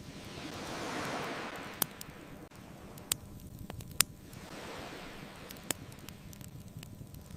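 Ocean waves washing in slow swells, one building about a second in and another around five seconds, with a bonfire crackling and four sharp pops.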